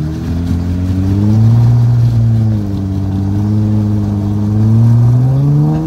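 Jeep engine revving up and easing off twice, its pitch rising, falling back, then climbing again to a peak near the end.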